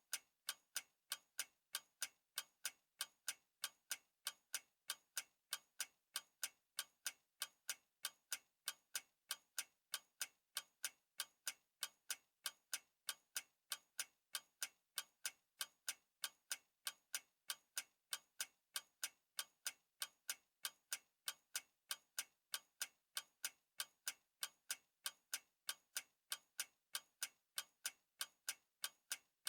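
A clock ticking steadily and evenly, about two ticks a second.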